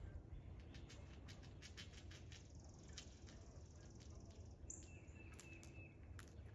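Faint bird chirps and short high calls, many quick notes, over a steady low outdoor rumble.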